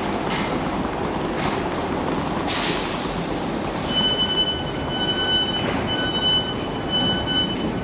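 Passenger train running, a steady rumble with a few faint clicks in the first seconds. From about four seconds in, a repeated electronic beep sounds, roughly once a second.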